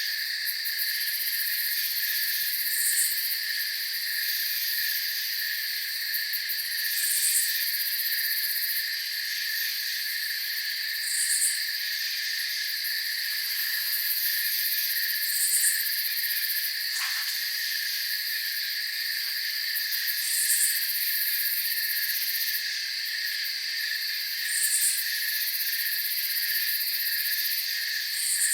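Night chorus of crickets and other insects trilling steadily, with a short higher chirp repeating about every four seconds.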